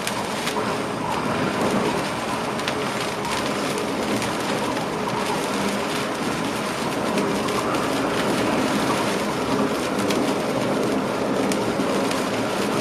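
Running noise of a passenger train heard from inside the driver's cab: a steady rush of wheels on rails with a few scattered clicks.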